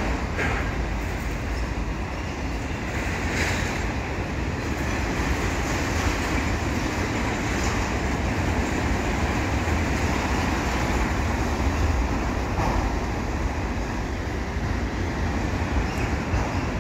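Freight cars, mostly autoracks, rolling past at steady speed: a continuous low rumble of steel wheels on rail, with an occasional faint click.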